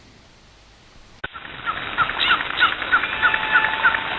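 After about a second of quiet and a sharp click, birds chirping: a run of short, repeated chirps about three or four a second, with a faint thin whistle held near the middle.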